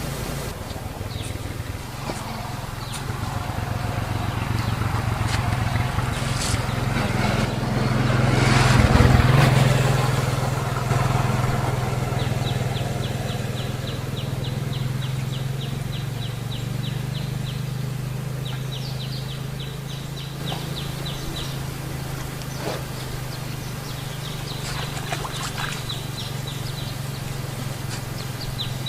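A steady low motor hum that swells and fades about nine seconds in, with runs of rapid, high ticking chirps in the later part.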